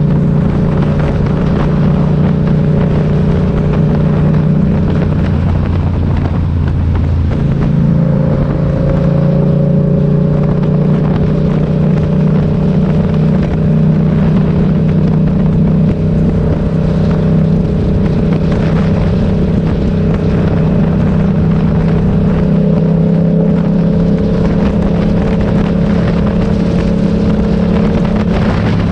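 Motorcycle engine running steadily under way. Its note changes about seven seconds in and then rises slowly.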